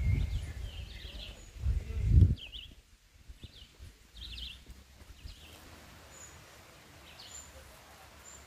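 Several wild birds singing, with quick repeated chirping phrases for the first five seconds or so, then a few thin high notes. Two low rumbles on the microphone in the first couple of seconds.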